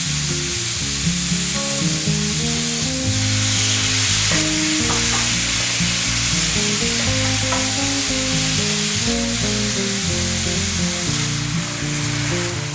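Food sizzling in a hot frying pan as it is stir-fried, a steady hiss that swells about three seconds in and eases near the end, over background music.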